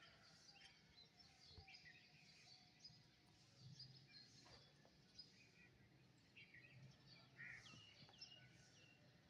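Faint birdsong: scattered short chirps and call notes over a low steady hum.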